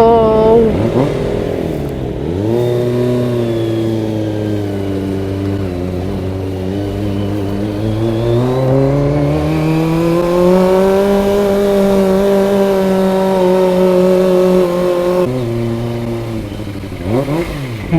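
Kawasaki ZX-25R's 250 cc inline-four motorcycle engine revving hard as it pulls away, with a gear change about two seconds in. It then runs at steady, slowly climbing revs, drops when the throttle closes about fifteen seconds in, and revs up quickly again near the end.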